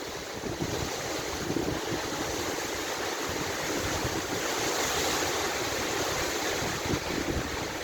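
Wind storm blowing hard and steadily, with gusts buffeting the microphone in low, irregular thumps.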